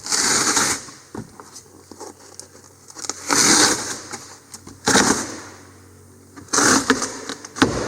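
Old boat carpet being ripped up off the floor in four short, noisy tearing pulls, with a single knock near the end.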